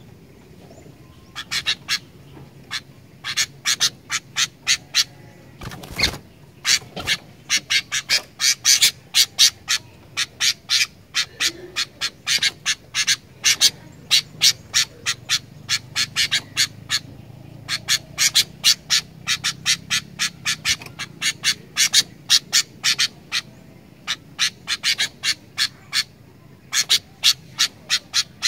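Sooty-headed bulbul (kutilang) giving rapid runs of short, sharp chattering calls, several a second, broken by short pauses. A dull thump comes about six seconds in.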